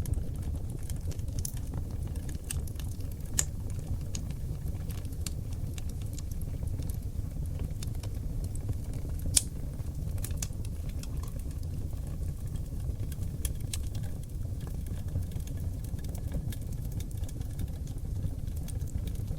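Oak logs burning in a fireplace: a steady low rumble of flames with scattered sharp crackles and pops. The two loudest pops come about three and a half and nine and a half seconds in.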